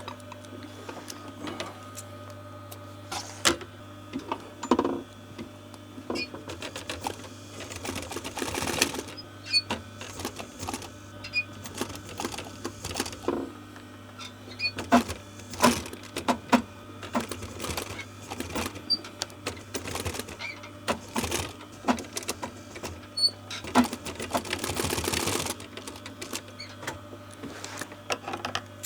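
Sewing machine stitching a car seat cover in short runs, the longest about a third of the way in and again near the end, with clicks and knocks of handling between the runs over a steady low hum.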